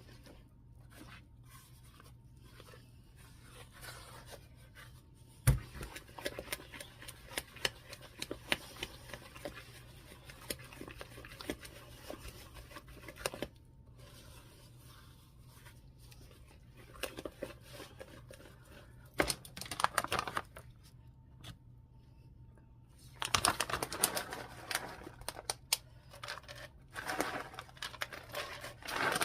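Kitchen baking-prep sounds: a sharp knock about five seconds in, then irregular clicking, tapping and scraping of utensils, with louder bursts of scraping and rustling in the second half.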